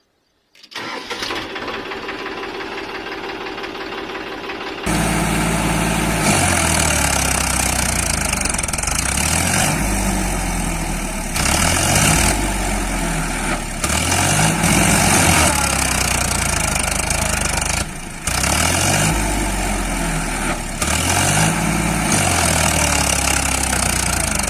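An engine-like running sound that gets louder about five seconds in, then rises and falls in pitch every two to three seconds, as if revving repeatedly.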